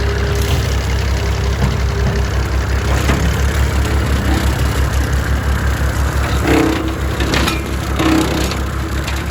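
Small tractor's engine running steadily with a low pulsing throb while driving a large brush cutter. A few sharp cracks and snaps come about two-thirds of the way through.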